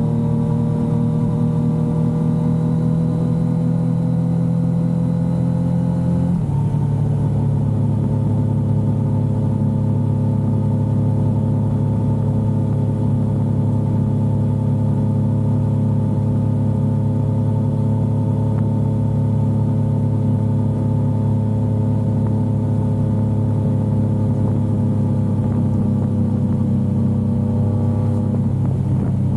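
Yamaha XSR900's inline three-cylinder engine pulling with slowly rising revs, then an upshift about six seconds in drops the pitch, after which it cruises at steady, slowly easing revs, with another small change near the end.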